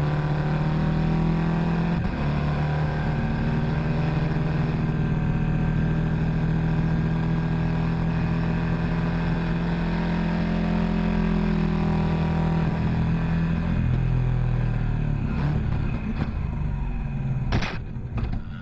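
Motorcycle engine running at a fairly steady pitch for most of the stretch, rising gently and then dropping and breaking up near the end, with a couple of short sharp sounds just before it stops.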